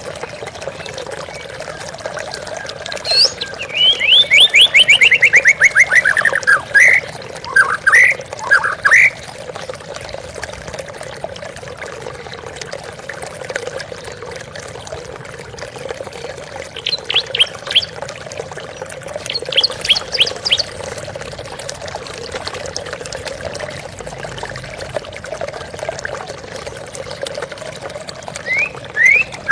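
Steady flowing water, with a songbird calling over it: a fast trill of notes sliding downward a few seconds in, followed by a few separate notes, then short runs of quick high notes around the middle.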